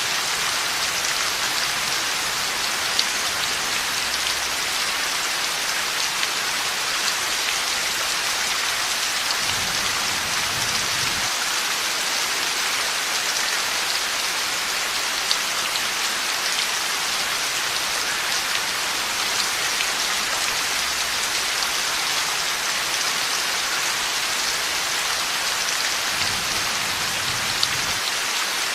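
Steady heavy rain falling on a surface. A faint low rumble of thunder comes about ten seconds in and again near the end.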